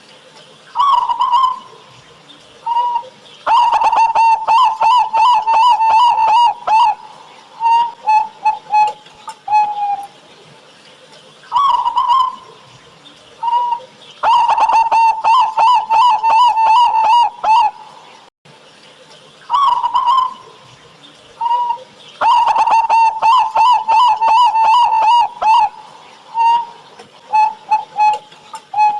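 Zebra dove (perkutut) song: three phrases about eight seconds apart, each an opening coo, then a fast rattling run of rapid notes lasting about three seconds, then a few spaced coos.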